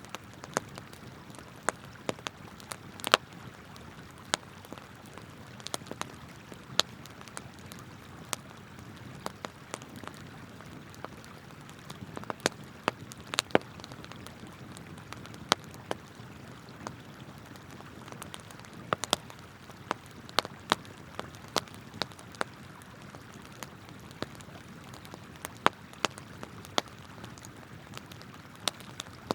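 Wood campfire crackling, with frequent irregular sharp pops, over the steady rush of flowing river water.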